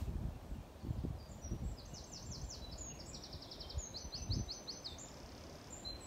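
A songbird singing a fast series of repeated high, down-slurred notes for about four seconds, starting a second and a half in. Under it run low thuds and rumble, loudest a little past four seconds in.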